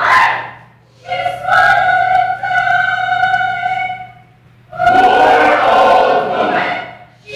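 A choir of voices singing two long held phrases, the first starting about a second in and the second near the end, each note sustained steadily.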